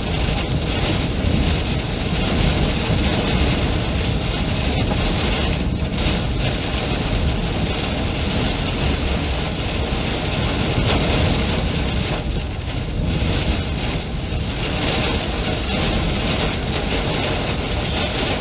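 Loud, steady roar of strong storm wind, with gusts buffeting the microphone.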